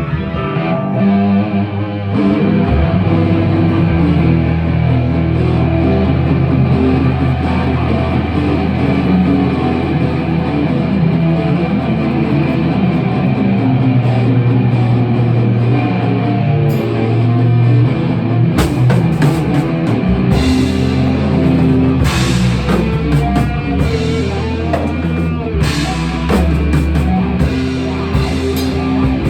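Rock music with guitar and drum kit, the cymbals and drums growing busier about two-thirds of the way through.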